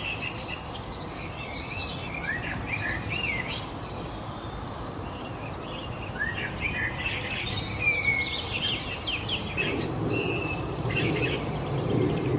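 Several small birds chirping and singing in quick, high twittering phrases, overlapping throughout, over a steady low background rush.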